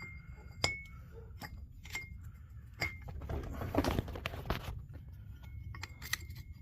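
Metal parts of a Chrysler 8¾ Sure-Grip limited-slip differential clinking as they are handled and fitted together: several light clicks, some with a short metallic ring, and a scraping shuffle in the middle.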